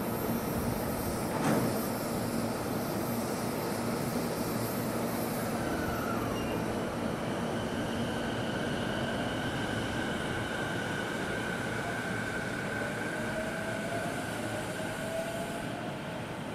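Electric train running along the track: a steady rumble of wheels on rail. A high wheel squeal is held through the second half, and a tone rises in pitch shortly before the end.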